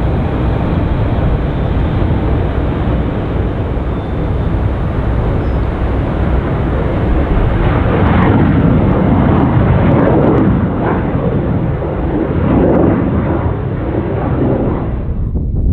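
Jet airliner engines rumbling loudly as the aircraft passes close. About halfway through the sound turns rough and crackling in uneven swells, and near the end the upper part cuts off abruptly.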